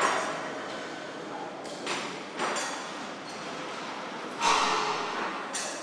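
Truck assembly plant noise: a series of sharp knocks and short hissing bursts over a steady background, the loudest about four and a half seconds in, fading over about a second.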